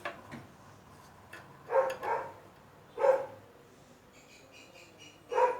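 A dog barking in short single barks, four times. A faint rapid high chirping starts in the last second or so.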